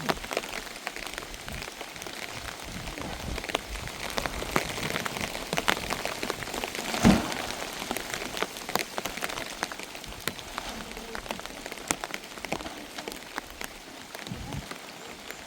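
Steady rain with many separate drops ticking as they strike a surface, and one louder thump about seven seconds in.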